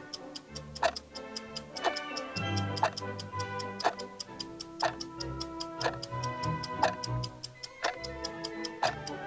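Clock ticking sound effect, about one tick a second, over background music.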